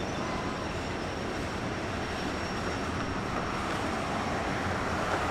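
Train rolling along the track: a steady noise of wheels on rail that swells slightly toward the end.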